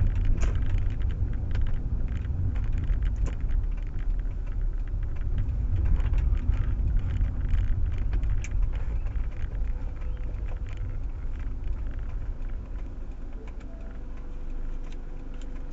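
Low road and engine rumble heard inside a moving Proton Waja 1.6 car, with scattered small clicks and rattles. The rumble eases off a little in the second half.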